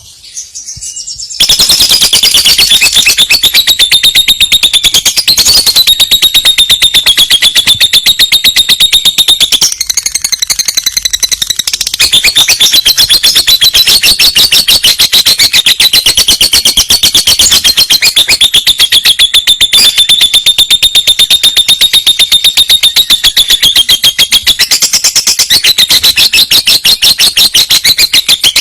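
Lovebird singing one long, unbroken trill: a loud, high-pitched, rapidly pulsing chatter that keeps an even rhythm. It starts about a second and a half in and softens briefly about ten seconds in.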